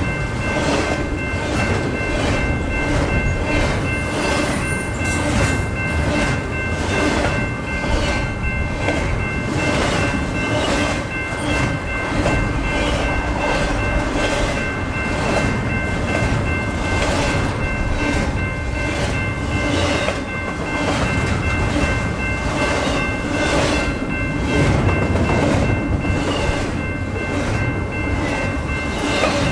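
Double-stack intermodal train of container well cars rolling past, its wheels clacking over the rail joints in a steady rhythm. A steady high-pitched ringing tone of several notes runs over the rumble.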